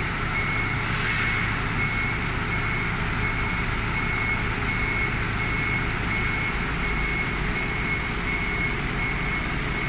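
A vehicle engine running steadily while a reversing alarm beeps over it at an even pace, as a forklift or truck backs up.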